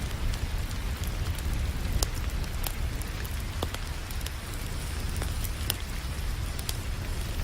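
Wood fire crackling with scattered sharp pops over a steady hiss of rain, with a constant low rumble underneath.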